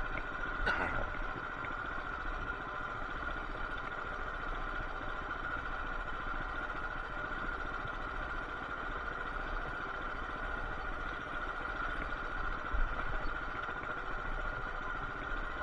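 Coleman BT200X mini bike's small single-cylinder engine running steadily, with a brief falling sweep about a second in.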